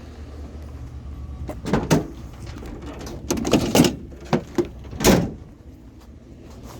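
A run of clunks and knocks from scrap items being handled and loaded, the loudest a heavy thump about five seconds in, over the steady low hum of an idling vehicle engine.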